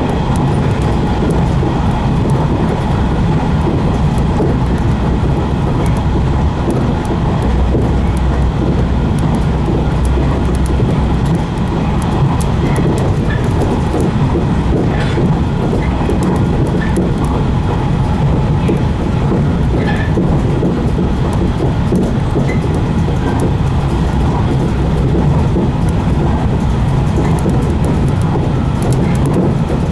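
115 series electric train running at speed: a steady rumble of wheels on rail, with scattered clicks over the track.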